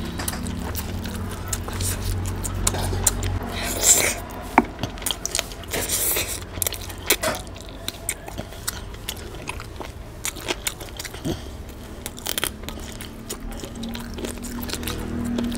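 Close-miked eating: a person chewing and biting mouthfuls of chicken curry and rice eaten by hand, with wet mouth clicks and a few louder crunches about four and six seconds in.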